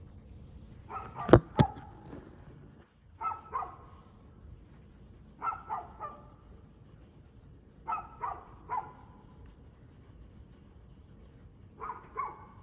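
A dog barking in short bouts of two or three barks, a bout every two to four seconds. About a second in, two sharp knocks come with the first bout and are the loudest sounds.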